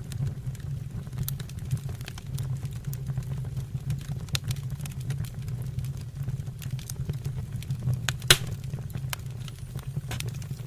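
Wood fire burning in a fireplace: a steady low rumble with scattered crackles and one sharper pop about three quarters of the way through.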